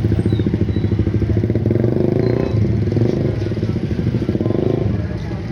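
Motorcycle engine running close by with a rapid, steady pulsing.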